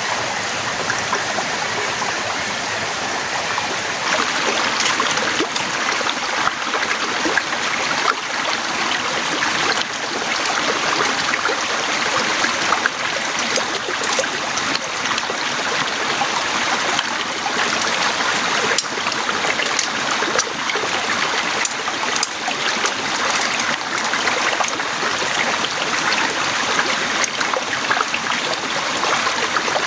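Torrential rain pouring steadily, a dense hiss with many sharp individual drop hits. It gets heavier about four seconds in.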